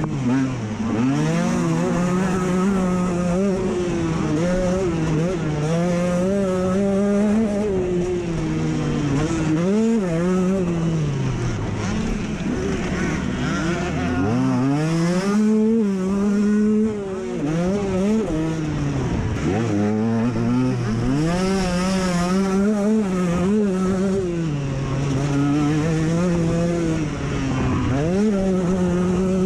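Dirt bike engine ridden hard on a motocross track, revving up and down as the rider works the throttle and gears. The revs drop sharply twice, near the middle and again a few seconds later, before climbing again.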